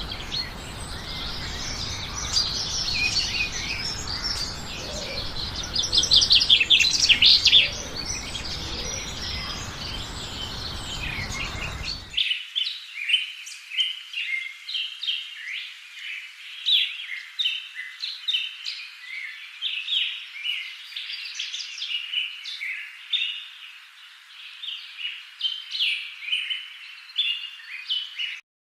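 Small birds chirping and twittering in quick, high notes, with a loud rapid trill about six to seven seconds in. Some twelve seconds in the sound cuts to a different, thinner recording of many quick chirps.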